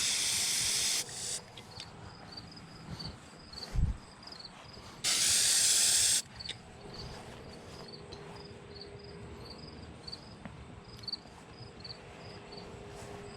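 Aerosol spray-paint can spraying in two bursts, one cutting off about a second in and another lasting about a second around the middle, with crickets chirping steadily in between.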